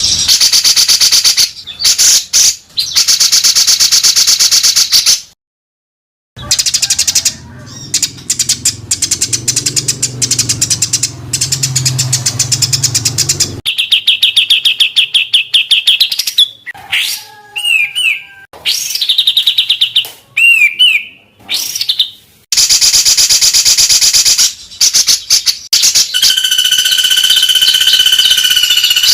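Recorded songbird song strung together as a training track: very fast, dense, harsh series of notes, cut off by a silence of about a second some five seconds in, with a few slurred whistled notes in the second half.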